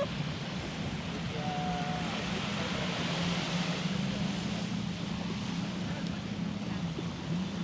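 Beach ambience: surf and wind noise on the microphone, with a steady low engine drone running through most of it.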